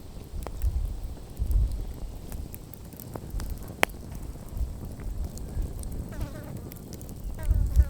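Wood campfire crackling, with scattered sharp pops, the loudest about four seconds in, over a low rumble. A short wavering buzz comes twice near the end.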